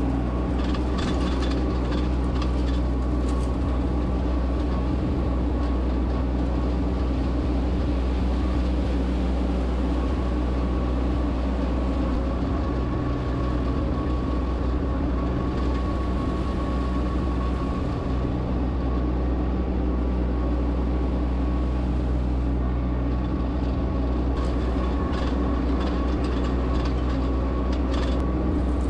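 Solis H24 compact diesel tractor running steadily while towing a 3-point dethatcher, with scattered clicks and rattles over the engine a few times.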